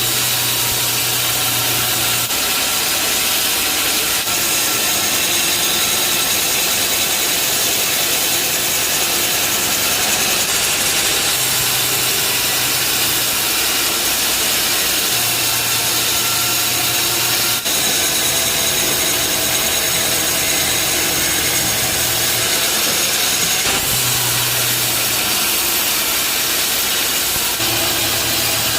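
Bandsaw sawmill cutting through a large mahogany log: a loud, steady hiss of the blade in the wood over the running machine, with a thin high whine and a low hum that cuts in and out several times.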